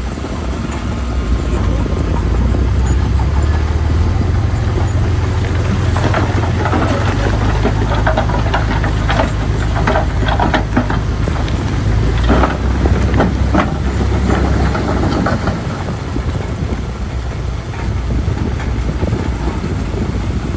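Bulldozer's diesel engine running steadily. Its steel tracks clank and squeal as it works, mostly in the middle stretch.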